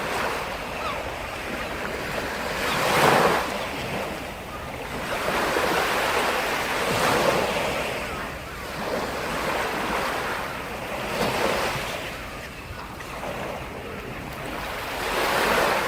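Sea surf: waves breaking and washing on the shore, a steady wash that swells and falls back every few seconds, with the biggest break about three seconds in.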